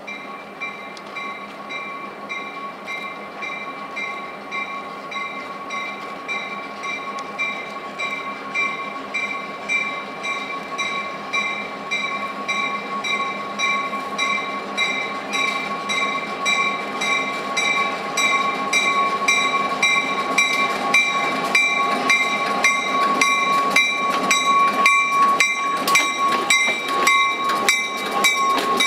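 Approaching diesel freight train: the lead locomotive's bell rings steadily at an even pace, growing louder as it nears. About two-thirds of the way through, sharp clicks of wheels over rail joints and the locomotives' engine noise join in as the lead units draw level and pass.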